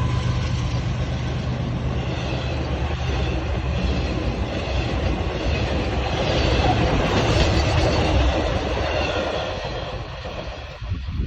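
Union Pacific intermodal freight cars rolling past on the rails, a steady rumble with faint high wheel squeal, dying down near the end.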